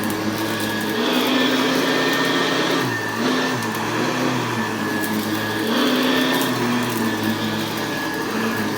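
Hoover Convertible U4315 upright vacuum cleaner running on carpet, a steady motor hum whose pitch dips and recovers a couple of times as the machine is pushed and pulled over the pile.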